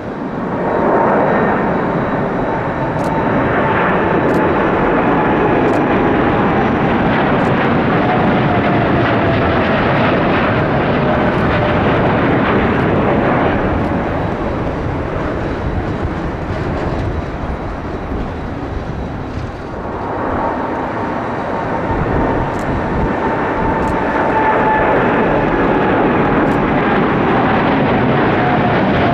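Jet airliner engines passing, a loud rushing roar with a whine that slowly falls in pitch. A second jet begins the same way about twenty seconds in.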